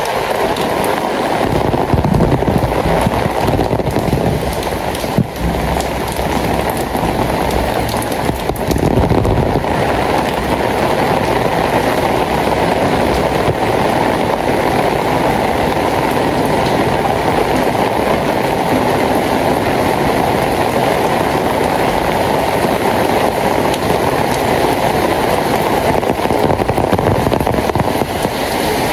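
Steady, loud rainfall, a dense hiss weighted toward the lower range, with a heavier low rumble in the first ten seconds and a single short knock about five seconds in.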